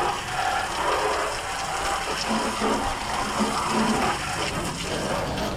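Water running and splashing, a steady noisy wash.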